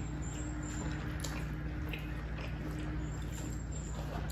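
Quiet chewing with a few faint clicks of eating over a steady low hum.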